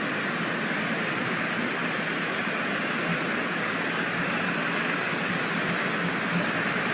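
Large stadium crowd making a steady, unbroken noise of many voices blended together.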